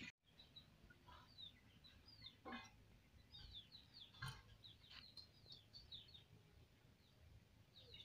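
Faint background birdsong: short, quick, falling chirps repeated many times, with a few faint knocks in between.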